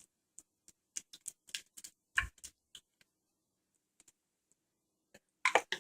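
Irregular light clicks and taps from handling kitchen things, such as a shaker or utensils, with one heavier knock about two seconds in and a quick cluster of taps near the end.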